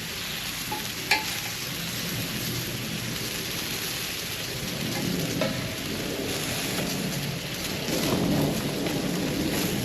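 Food sizzling on a portable fire-pit grill, a steady hiss, with a couple of light clicks and a low rumble swelling near the end.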